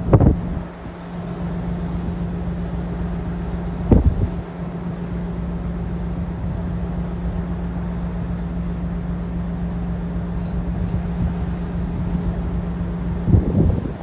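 Diesel locomotive engine running steadily with a low, even hum, broken three times by brief low thumps.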